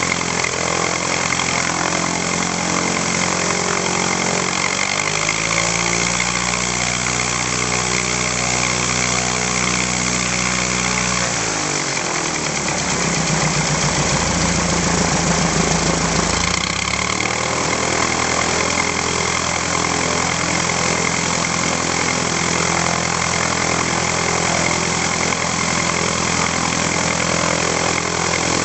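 UTVA 75 light aircraft's four-cylinder Lycoming piston engine running through its exhaust. The engine speed shifts about five seconds in, picks up and runs a little louder from about twelve to seventeen seconds, then settles back to its earlier steady running.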